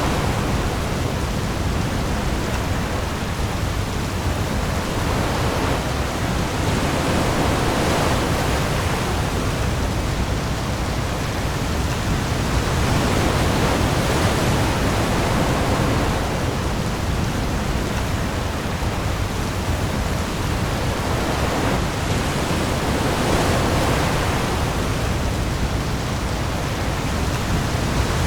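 Heavy rain pouring onto the open sea with waves: a dense, steady hiss that swells gently every several seconds, over a deep low rumble.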